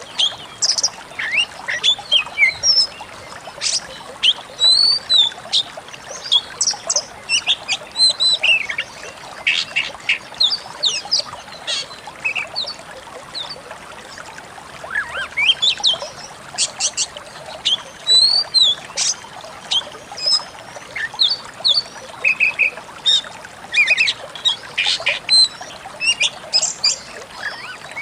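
Pied bushchat (decu kembang) song: rapid, busy phrases of chirps, short whistles and sliding notes, repeated almost without pause. It is played as a masteran, a tutor recording for training caged songbirds.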